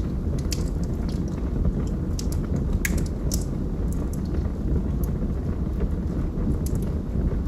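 Fire burning in a fireplace: a steady low rumble with scattered sharp crackles and pops, the loudest pop about three seconds in.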